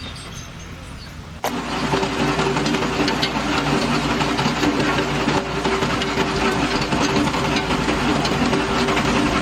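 An engine or machine running: a steady rattling drone with a hum that cuts in abruptly about a second and a half in.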